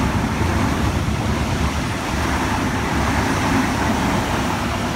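Eight-car Sydney Trains H-set Oscar double-deck electric train passing through the station at speed without stopping, close by. A loud, steady rumble and rush of wheels on rail.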